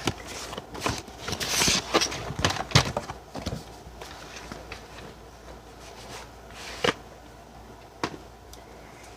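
Handling noise from VHS tapes and their cases: scattered clicks, knocks and rustles of plastic and paper, busiest in the first three seconds, then a couple of single sharp clicks.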